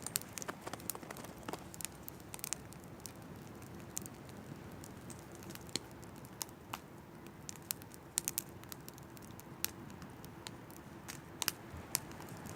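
Oak firewood burning in a campfire, crackling with irregular sharp pops and snaps over a steady low hiss.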